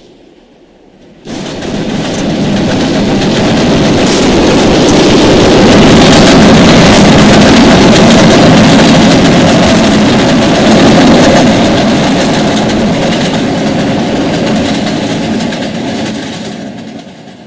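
A train passing at close range: loud rail and wheel noise comes in suddenly about a second in, stays loud through the middle and fades away near the end.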